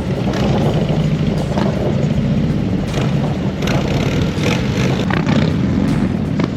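Harley-Davidson Road Glide's V-twin engine running steadily while riding, with a rush of wind noise.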